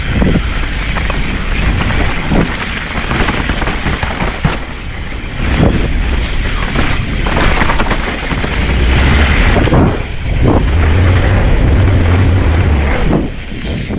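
Mountain bike descending a rough trail: wind buffeting the GoPro microphone as a heavy low rumble, with tyres rolling over dirt and rocks and repeated clunks and rattles from the Specialized Stumpjumper's frame, chain and suspension taking hits.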